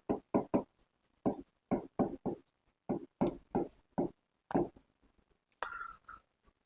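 A man's voice in short, quiet syllables, then a brief squeaky scrape about five and a half seconds in.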